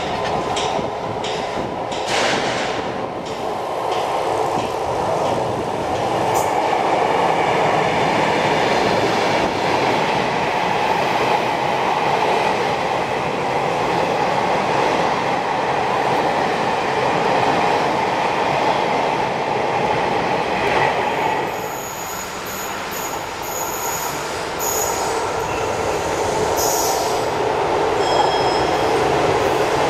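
Train running past on the track: a steady rumble and rush of wheels on rail, with a few sharp clicks in the first seconds. Brief high-pitched wheel squeals come and go over the last third.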